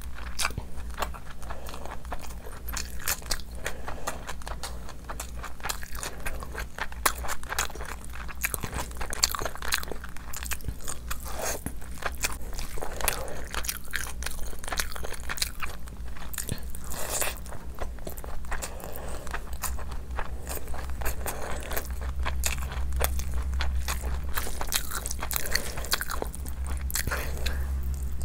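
Close-miked chewing and biting as a person eats meat curry and rice by hand, with a dense run of quick mouth clicks and smacks. A steady low hum lies underneath and grows louder near the end.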